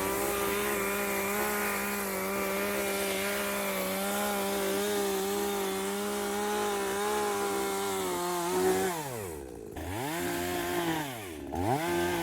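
A small engine running at high revs for about eight seconds. It then twice drops sharply in pitch and revs back up, as if the throttle is let off and opened again.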